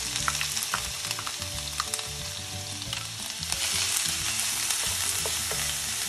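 Chopped onion and crushed garlic frying in hot butter and oil in a nonstick pan, stirred with a wooden spoon: a steady sizzling hiss with scattered crackles.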